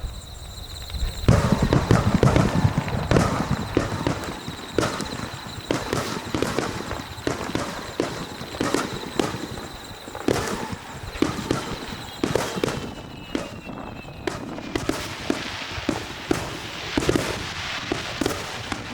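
Fireworks display: many aerial shells bursting in quick succession, a dense run of bangs starting about a second in and going on throughout.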